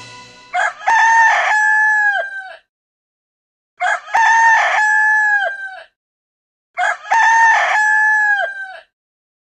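Rooster crowing cock-a-doodle-doo three times, each crow about two seconds long with a pause between, the same crow repeated each time.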